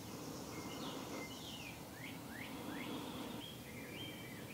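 Faint birdsong: a string of short chirps and quick whistled up-and-down sweeps from small birds, over a low steady background noise.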